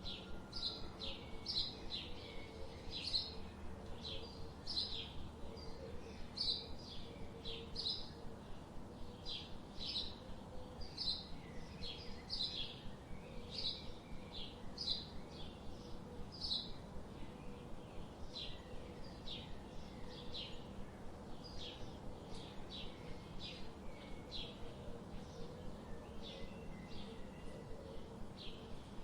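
Forest ambience of birds chirping: a steady run of short, high chirps, about one or two a second, over a faint even background.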